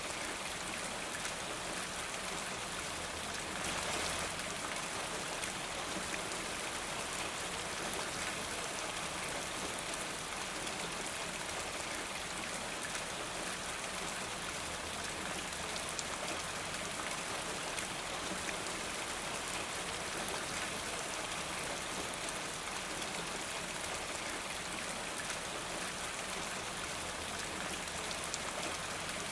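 Steady rain, a continuous hiss of many small drops pattering, with a brief slight swell about four seconds in.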